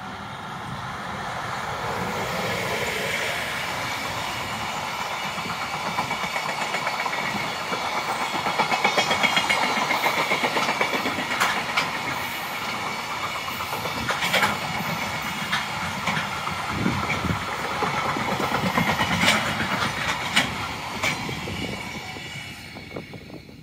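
EF510 electric locomotive passing at the head of a long freight train of container wagons, the wagons' wheels clacking over rail joints as they roll by. The sound builds, holds, then fades over the last second or two as the train goes.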